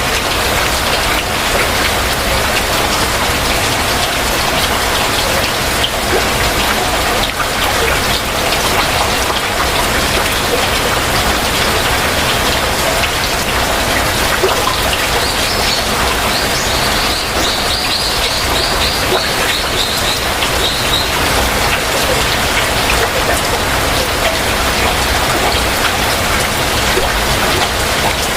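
Heavy rain falling steadily. About halfway through, a bird gives a trill of quick, evenly repeated high notes lasting a few seconds.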